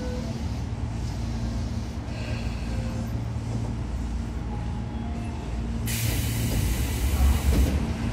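Tobu 9000 series commuter train heard from inside the car: a steady low running rumble with a faint hum. About six seconds in, a hiss of compressed air starts abruptly and cuts off after nearly two seconds, with a sharp knock right at the end.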